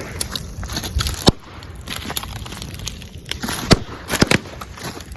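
Bamboo bonfire crackling, with several sharp pops over a steady low rush of the burning fire, a cluster of them near the end.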